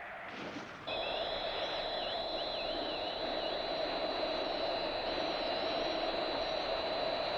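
A steady, wind-like hiss with a held high tone and faint wavering whistles over it, starting abruptly about a second in: an eerie soundtrack drone.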